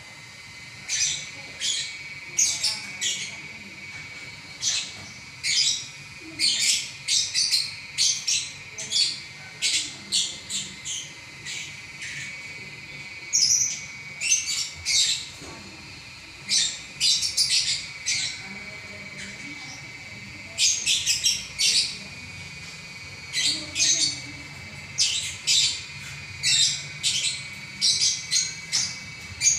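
Lovebird in continuous chattering song ('ngacor'): rapid strings of short, high, squeaky chirps and squawks coming in runs, with brief pauses between them.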